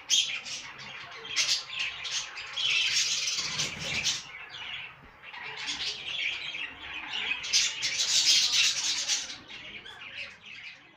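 Caged budgerigars calling in a continuous, dense, high-pitched chatter of chirps, louder about two to four seconds in and again around eight seconds, then fading near the end.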